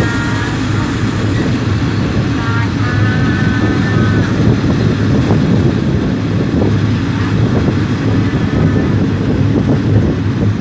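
Passenger train running along the track, heard from an open carriage window: a steady rumble of wheels and engine with a low hum, mixed with wind rushing past.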